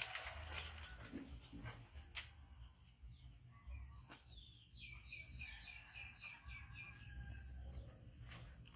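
A bird calling: a run of about ten quick, evenly repeated high notes lasting about two seconds, midway through. Before it come a rustle and a few scattered sharp clicks.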